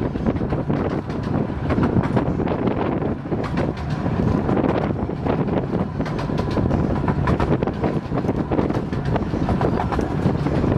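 A 15-inch-gauge miniature railway train running along the track, its wheels clattering with a constant stream of small knocks, while wind buffets the microphone.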